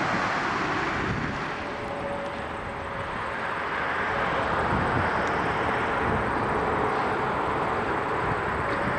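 Beechcraft 1900 twin-turboprop engines running as the aircraft passes, a steady rushing drone.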